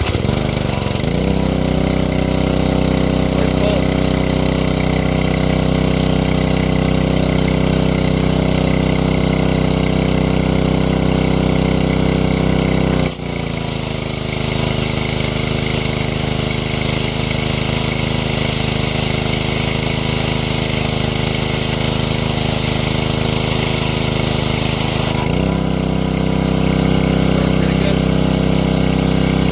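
Briggs & Stratton 725 EXi single-cylinder engine on a Troy-Bilt gas pressure washer catching right away on a pull start, then running steadily on its first run out of the box. About halfway through, the engine note changes and a hiss rises; near the end it goes back to the first note.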